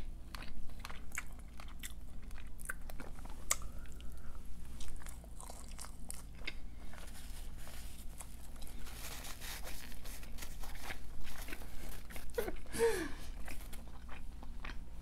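A person biting and chewing food close to the microphone, with many sharp crunching clicks. A short falling hum from the eater comes near the end.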